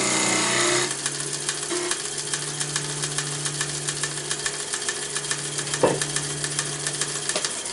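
Wood lathe turning a wooden box blank while a hand-held turning tool cuts into the spinning wood: a loud cutting hiss for about the first second, then lighter scraping with rapid ticking over the lathe motor's steady hum. A single sharp knock comes about six seconds in, and the motor hum stops near the end.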